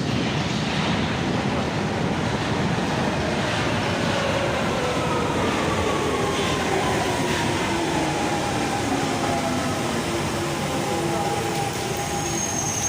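London Underground Central line 1992 Stock tube train running through the station tunnel, with a loud rumble of wheels on rail. Its motor whine falls steadily in pitch as the train slows, and a thin high squeal sets in near the end.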